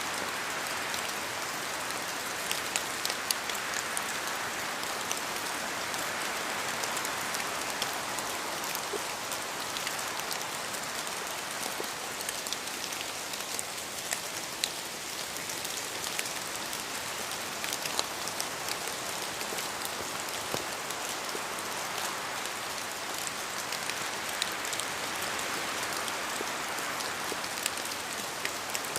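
Steady rain in a forest, an even hiss with scattered sharper taps of heavier drops falling from the trees.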